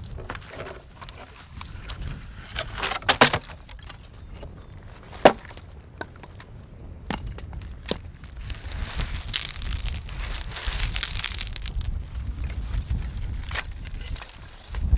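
Dry sticks being snapped for firewood: a series of separate sharp cracks, with a cluster about three seconds in and the loudest single snap about five seconds in. Wind rumbles on the microphone for a few seconds in the second half.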